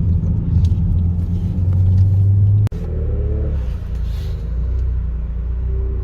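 Steady low rumble of a car's engine and road noise heard from inside the cabin while driving. It breaks off for an instant about two and a half seconds in and then carries on.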